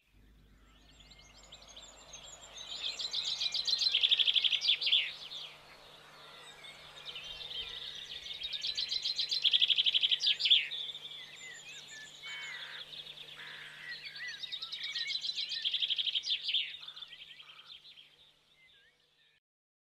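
A songbird singing three phrases of rapid, high repeated notes, each swelling in loudness and then falling away. The sound fades out near the end.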